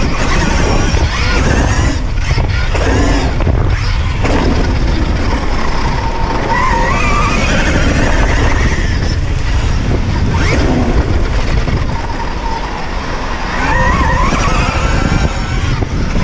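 Electric motocross bikes riding a dirt track: motor whine gliding up and down in pitch over a steady, heavy rumble of tyres skidding on dirt.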